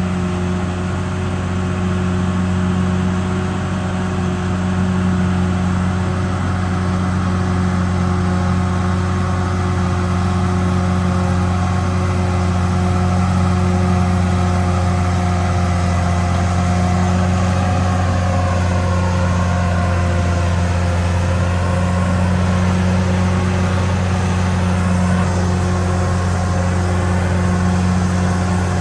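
Caterpillar D6R XL bulldozer's diesel engine running steadily with a deep hum and a constant whine, which dips slightly in pitch and comes back about two-thirds of the way through.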